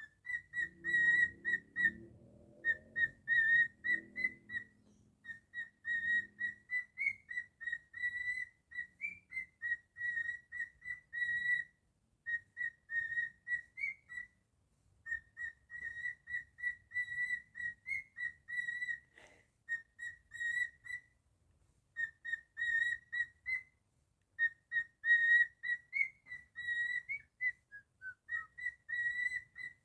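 Cockatiel whistling long runs of short, clear notes on one pitch, about three a second, with brief pauses between runs and a falling note near the end.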